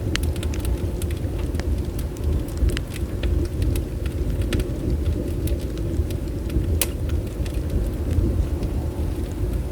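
Wood fire burning: scattered sharp crackles and pops of burning wood, the loudest about seven seconds in, over a steady low rumble.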